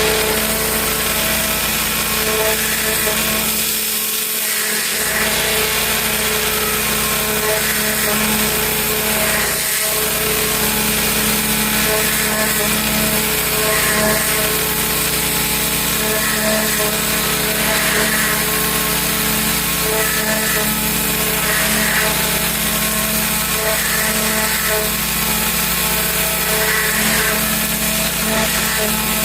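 Pressure washer running steadily, its high-pressure spray hissing against wooden deck railing, with the machine's steady hum underneath.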